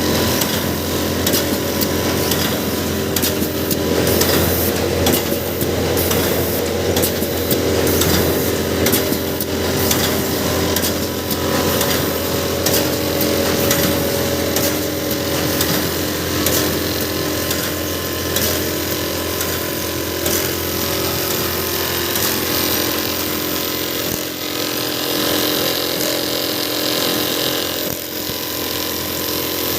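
A machine running steadily: a constant mechanical drone with a dense rattle of clicks over it.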